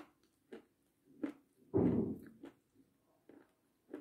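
Close-up chewing: short crisp crunches and wet mouth clicks, with one louder, longer wet sound about two seconds in.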